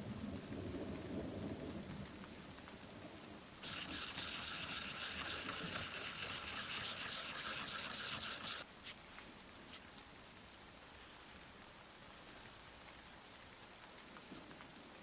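Thunderstorm sounds: a low thunder rumble, then a burst of heavy rain hiss that starts and cuts off abruptly, followed by a few faint ticks and a soft background hiss.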